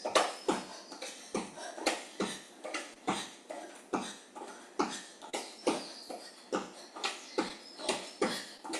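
Jumping jacks in training shoes: feet landing on the floor in a steady rhythm, a little over two landings a second.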